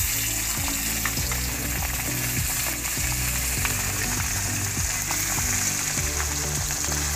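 Pieces of turmeric-coated rohu fish frying in hot refined oil in a wok (kadai), a steady sizzle with occasional small pops.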